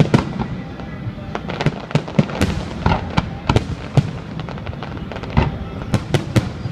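Fireworks display going off in quick, irregular bangs and crackles, several sharp reports a second, over a steady low rumble.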